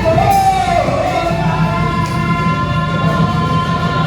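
Church worship music with singing. A sung line slides down in the first second, then long held notes carry on.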